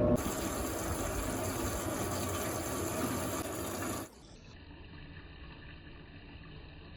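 Electrolux LAC16 washing machine: the spin motor's hum cuts off right at the start, and a steady rush of water in the machine takes over. About four seconds in, the rush drops suddenly to a much quieter hiss.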